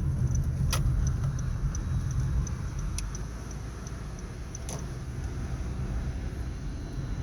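Honda Civic driving, heard from inside the cabin: a steady low road rumble with three sharp clicks, about a second in, at three seconds and near five seconds. This is the clicking over bumps that the owner says comes from neither the suspension nor the steering.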